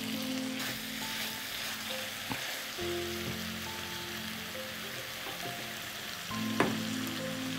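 Chicken masala sizzling in a pan on a gas stove as a slotted spatula stirs fresh fenugreek (methi) leaves into it, with a short knock of the spatula against the pan about two seconds in and another near the end.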